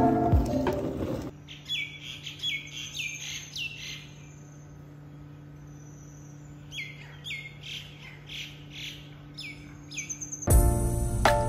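A bird calling over and over in short notes that each fall in pitch, in two runs of about half a dozen calls with a pause between, over a steady low hum.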